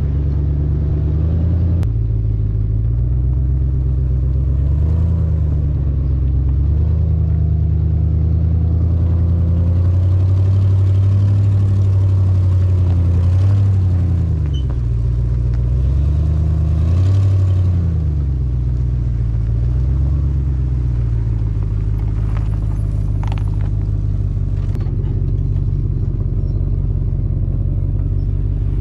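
WJ Jeep Grand Cherokee engine running with a leaking exhaust while being driven slowly. Its low rumbling note rises and falls again and again as the throttle opens and closes.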